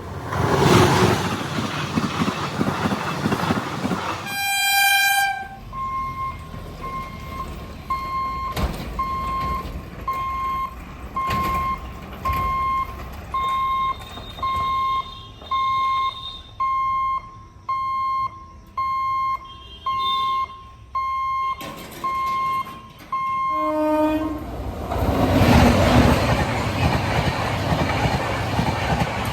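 Express train rushing past, then a short train horn blast about four seconds in. An electronic beep repeats evenly for about eighteen seconds, typical of a level-crossing warning. A second short horn sounds near the end, followed by another train rushing past.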